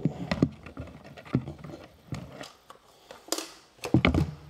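Handling noise from a Hoover robot vacuum's plastic body and battery cover: scattered clicks, knocks and scrapes, with the sharpest scrapes about three and four seconds in.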